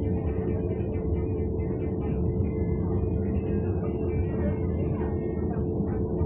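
Cabin noise of a moving passenger train: a steady low rumble from the running gear on the track, with a constant hum over it.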